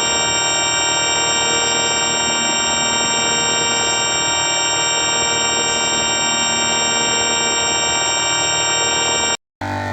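A synthesized vocoder effect sound: a steady, buzzy electronic tone with many pitches held unchanged for about nine seconds, cutting off suddenly near the end.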